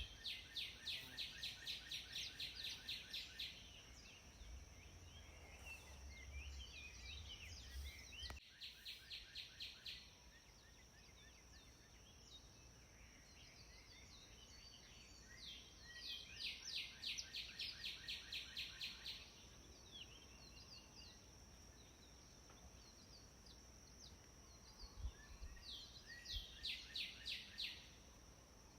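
Birdsong: a songbird sings short phrases of fast repeated trilled notes, each phrase lasting two to three seconds, four times over. A steady faint high-pitched drone runs underneath.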